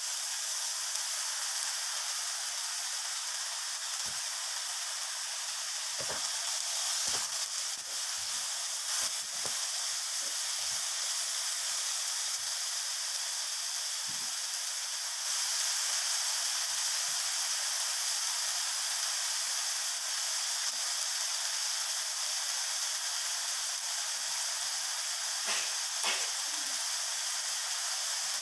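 Sweet soy sauce, oil and chopped ingredients sizzling and frying in a hot non-stick wok. It is a steady hiss, a little louder about halfway through, with a few brief soft knocks.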